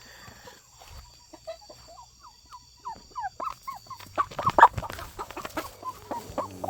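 A flock of chickens clucking in a string of short, falling notes. The clucking gets louder and busier about four seconds in.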